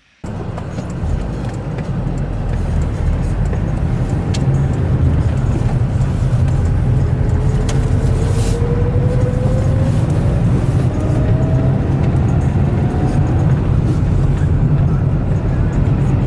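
Car driving along: steady, loud road and engine noise, with a faint rising whine through the middle.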